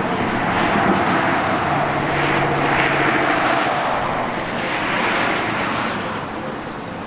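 Race cars running past at speed, their engines swelling and fading one after another, about three passes.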